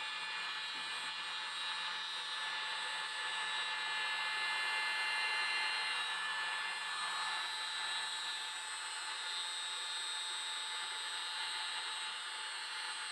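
Mini electric blower running steadily: an even rush of air with a high, steady motor whine.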